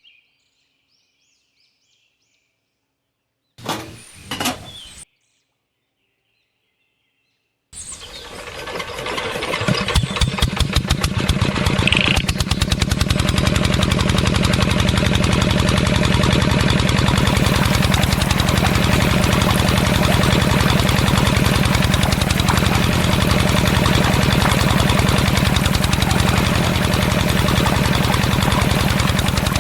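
Small engine starting about eight seconds in: rapid firing pulses that quicken as it catches, then settle into steady running for the rest of the time. Two short sounds come a few seconds before it starts.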